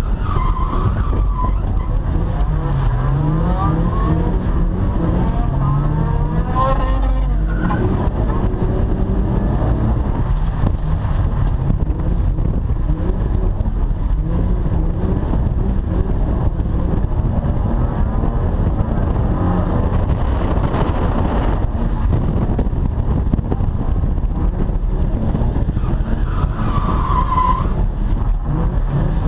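Holden VY Commodore ute's engine revving up and falling back over and over under heavy throttle as the car drifts sideways on a wet concrete skid pan, with a constant low rumble beneath.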